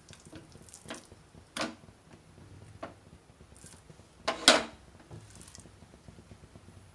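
Short bursts of hot-oil sizzling, four of them, the loudest about four and a half seconds in. These fit pieces of chicken breast being laid into a lightly oiled hot pan to grill.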